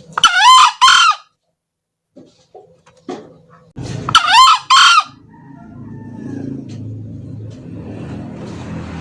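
Male green junglefowl crowing twice, about three and a half seconds apart, each crow a short two-part call lasting about a second. After the second crow a low steady hum comes in.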